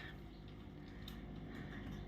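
Quiet room tone: a steady low hum and faint hiss, with one faint click about a second in.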